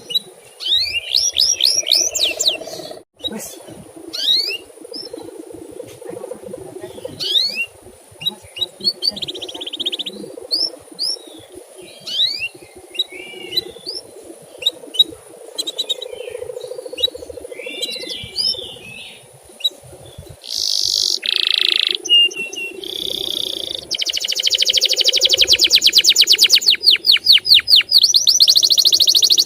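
Canary singing: short rising chirps and warbled phrases that break into a fast, loud, rapidly repeated trill near the end, over a steady low hum.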